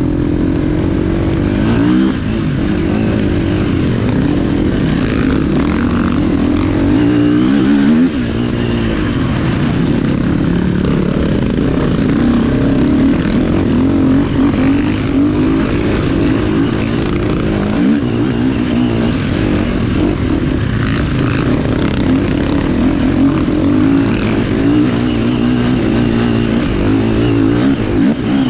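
Off-road dirt bike engine running hard, its pitch rising and falling with the throttle; one long rise ends in a sudden drop about eight seconds in.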